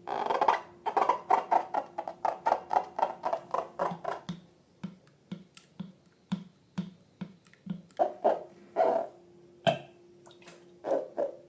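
Slime being squeezed and poked by hand, giving sharp, wet clicking pops. They come quickly, about four a second, at first, then slow to about two a second, with a few longer squelches near the end.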